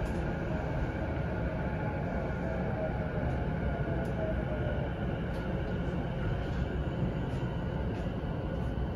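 Interior running noise of a Keihin-Tohoku Line E233-1000 series commuter train: a steady rumble of wheels on rail. Midway a faint tone falls slightly in pitch as the train slows for the station.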